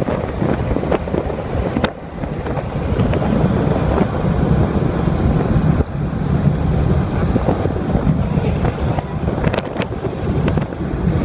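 Strong wind buffeting the microphone: a loud, steady, gusting rumble with occasional sharp knocks.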